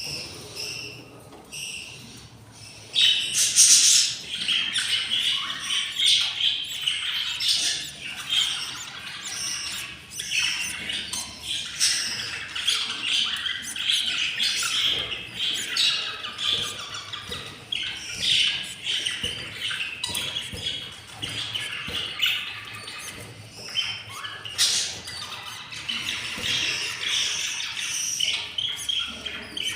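Budgerigars calling: a constant stream of overlapping squawks and chirps that grows loud and dense about three seconds in.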